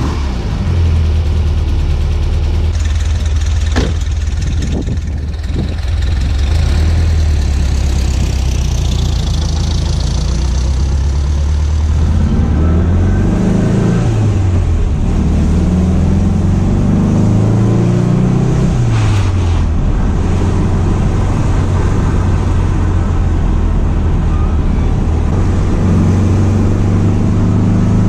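Porsche 912's rebuilt air-cooled flat-four engine running under way, steady at first. Around the middle its pitch climbs and drops back twice, as when accelerating up through the gears, then it settles to a steady cruise and picks up again near the end.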